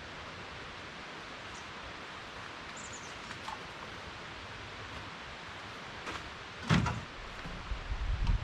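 Steady outdoor hiss, then about two-thirds of the way in a single loud thump, followed near the end by a run of irregular knocks and rattles, as of heavy gear being handled.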